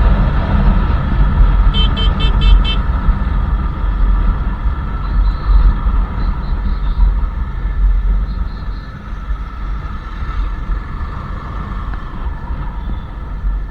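Royal Enfield Classic 350's single-cylinder engine running under way, with a steady low rumble. A horn beeps about five times in quick succession about two seconds in. The level eases off after about eight seconds.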